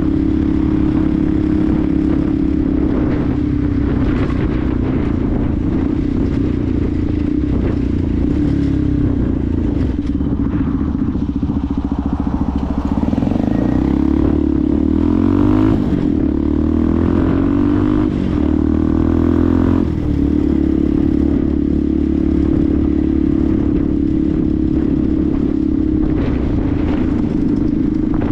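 Benelli TNT 125's 125cc single-cylinder engine running at a steady cruise. About halfway in it accelerates through the gears, its pitch rising and dropping back with each of three upshifts, then settles back to a steady drone.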